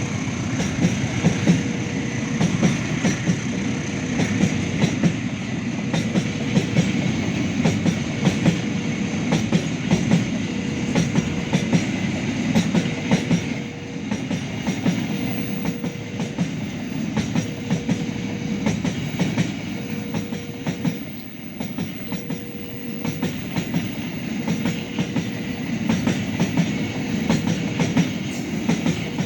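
A train passing close by, its wheels clattering over the rail joints and running on steadily for the whole stretch. A tone beeps on and off about every second and a half throughout.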